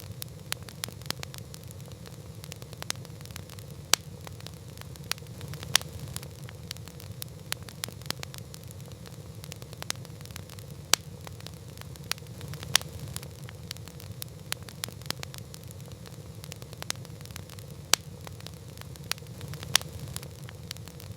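Wood campfire crackling: a steady low hiss of flames with frequent sharp crackles and occasional louder pops at irregular intervals.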